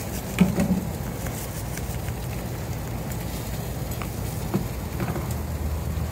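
Steady crackling sizzle of asparagus frying in oil on a propane griddle, with a low hum underneath and a few light ticks.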